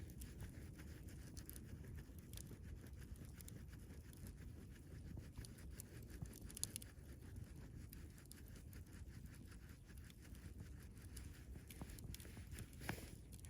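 Wood campfire burning with a faint, irregular crackle of small pops, and two sharper snaps: one about halfway through and one near the end.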